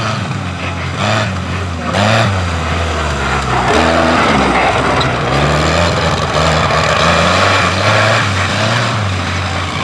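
Tractor engine running hard, its pitch rising and falling as it is revved. A loud rushing noise builds up about three and a half seconds in and carries on.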